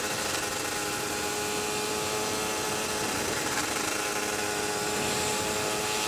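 KTM EXC 125's two-stroke single-cylinder engine running at a steady pitch while the bike is ridden at an even speed.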